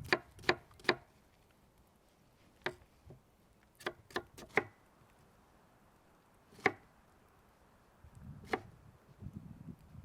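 A series of sharp knocks and clicks, about nine in all, coming singly and in small quick clusters at irregular intervals, with a faint low rumble near the end.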